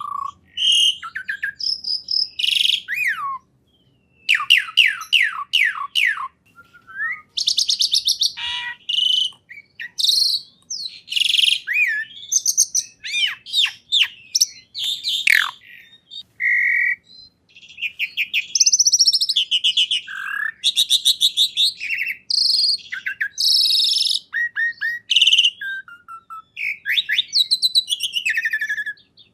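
A songbird singing a long, varied song: rapid trills, quick downward-sweeping notes and short chirps follow one another with only brief pauses.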